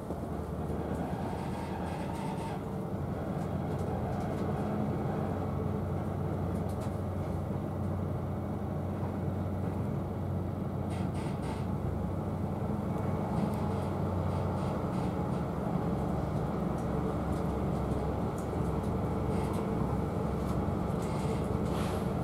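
Class 43 HST (InterCity 125) train heard from inside a carriage as it pulls away: a steady low rumble of the running gear with an engine drone, slowly getting louder as the train gathers speed, with a few faint clicks.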